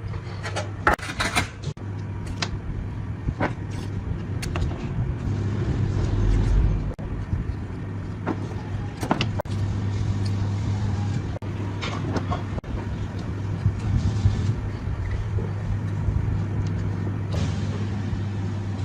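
A machine running with a steady low hum throughout, with scattered sharp clicks and knocks over it.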